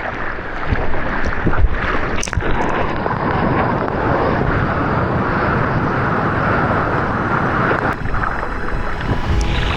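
Loud, steady rushing noise of wind on the microphone over breaking surf.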